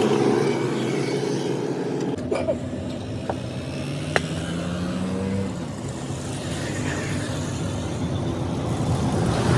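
A motor vehicle engine running steadily, its note rising slowly for a couple of seconds, with a few sharp metallic clicks.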